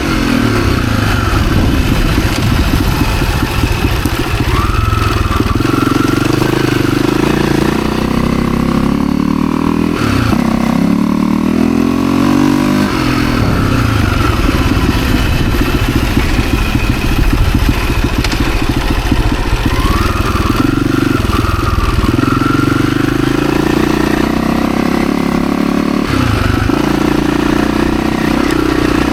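Husaberg FE 350 dirt bike's single-cylinder four-stroke engine running under way as it is ridden. The revs climb and drop back several times.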